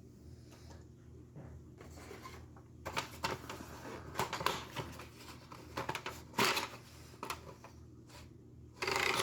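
Old cardboard boxes and packaging being handled as an HO scale model train car is unpacked: irregular rustling, scraping and small clicks, busier from about three seconds in, with a louder rustle near the end.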